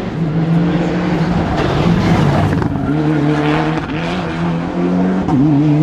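Rally car engine running hard on a special stage, its note stepping up and down several times as the driver works through the gears.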